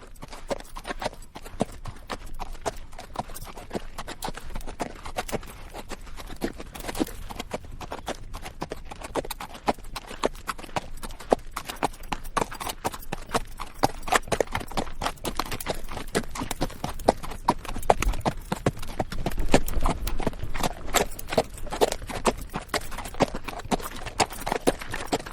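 Horse walking on rocky dirt, its hooves clip-clopping in a steady, uneven stream of knocks, with the bridle rattling and the saddle creaking.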